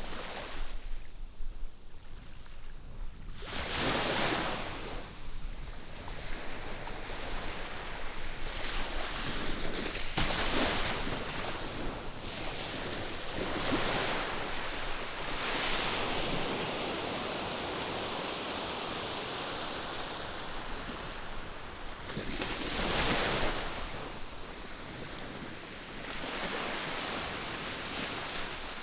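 Ocean surf breaking on a sandy beach: a steady wash of waves that swells into several louder surges as each wave breaks and rushes up the shore.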